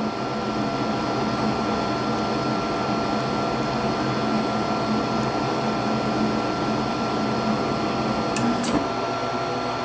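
Gas furnace running with its burners lit, a steady rush with an electrical hum. Near the end come a couple of clicks and a brief change in the hum as the blower fan starts to come on and the furnace shuts down, a fault of this furnace when run on inverter power.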